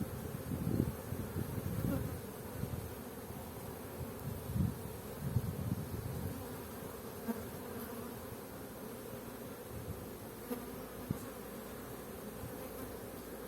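Honeybees buzzing in a steady hum around an opened hive. Irregular low bumps come through the hum in the first six seconds, and a few short clicks follow later.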